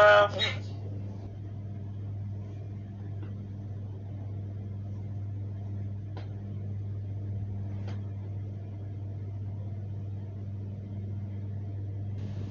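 A steady low hum with a faint hiss behind it and two faint clicks past the middle. No animal call is heard.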